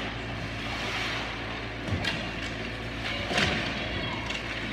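Ice hockey game play in an arena: a few sharp knocks of sticks, puck and boards over a steady low hum. Two knocks come about two seconds in and the loudest about three and a half seconds in.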